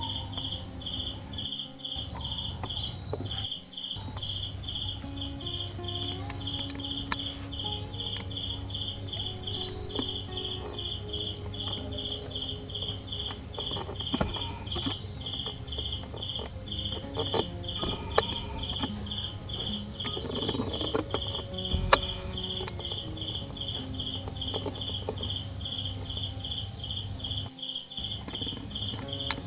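Insects chirping in an even, steady pulse, over a continuous high-pitched insect buzz and a low hum, with a couple of brief knocks late on.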